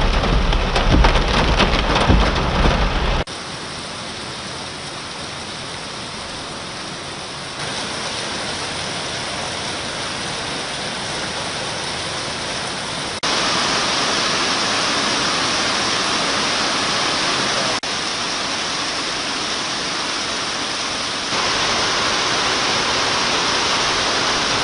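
Heavy rain pouring steadily. The first three seconds are louder, with a deep crackling rumble over the hiss; after that the rain hiss is steady, with abrupt jumps in level several times.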